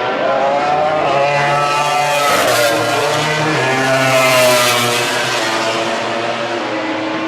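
MotoGP racing motorcycle engines at high revs, the pitch rising and falling with throttle and gear changes, loudest a little after the middle as they pass.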